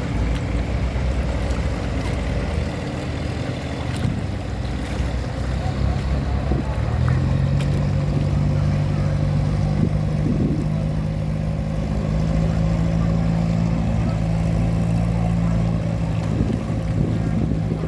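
Tugboat's diesel engine running steadily under way; about seven seconds in its note grows stronger and a little higher, as if throttled up.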